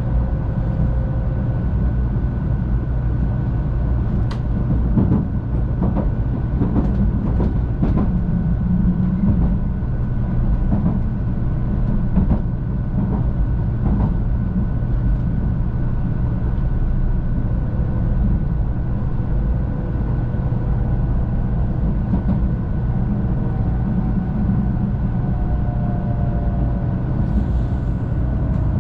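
Cabin noise of a JR West 500 series Shinkansen under way: a steady low rumble with a faint high steady tone and scattered clicks. Near the end faint tones fall in pitch as the train slows into a station stop.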